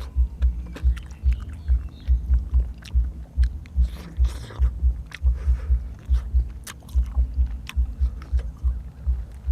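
Close-miked chewing of food: a steady rhythm of low thuds, about three a second and broken by a couple of short pauses, with scattered wet mouth clicks.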